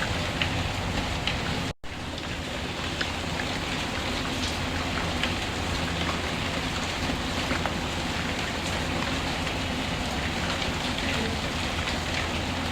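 Steady rain with scattered light ticks. The sound cuts out for an instant just before two seconds in, then resumes.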